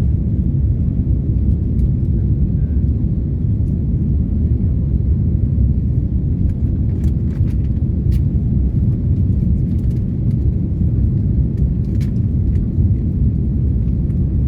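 Airbus A330 cabin noise: the steady, low rumble of the jet engines and airflow heard from inside the passenger cabin, with a few faint clicks from cabin fittings.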